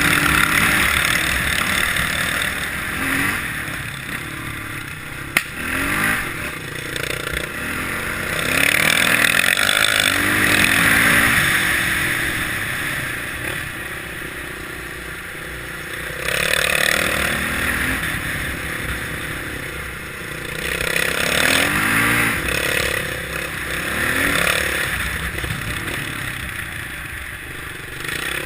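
Kawasaki KLX650R's single-cylinder four-stroke engine on an enduro ride, revving up again and again in rising pulls and easing off between them, under a steady rush of wind noise. A single sharp knock about five seconds in.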